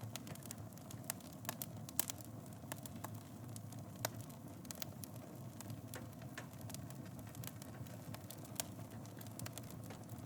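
Wood fire burning in a fireplace: a steady low rumble of flames with irregular sharp crackles and pops, the loudest pops about two and four seconds in.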